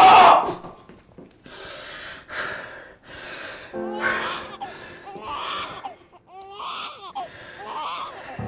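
An infant crying hard: a loud scream at the start, then breathless gasping sobs and short wavering wails about once a second.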